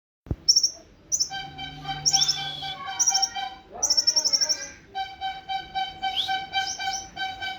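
A kolibri ninja, a small sunbird, singing in repeated bursts of fast, high, sharp chirps, each a quick run of notes. A steady pulsing tone with overtones runs beneath for much of the time, and there is a single click just after the start.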